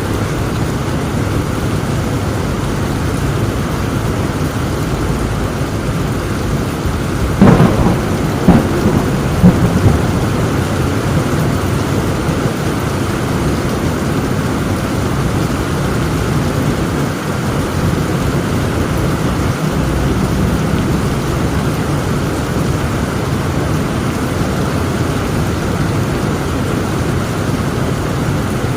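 Heavy rain falling steadily through a thunderstorm, with a sudden sharp crack of thunder about seven seconds in, followed by two more cracks over the next two seconds.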